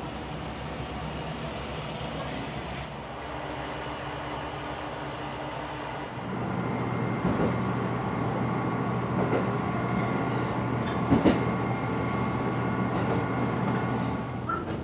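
Diesel railcar running on the line, heard from inside the carriage: a steady engine drone with wheels on the rails. About six seconds in the engine note changes and the sound gets louder.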